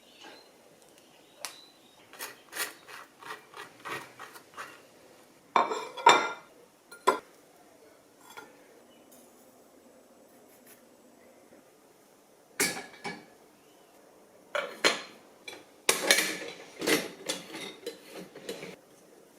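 Dishes and cutlery clinking and clattering: scattered light clinks, a louder clatter about six seconds in, and a dense run of clinks near the end.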